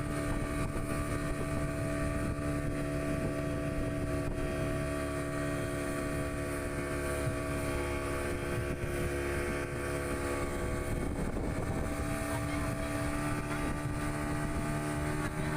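Motorboat engine running steadily at a constant pitch, the boat towing a banana boat, with low rumble of wind and water underneath.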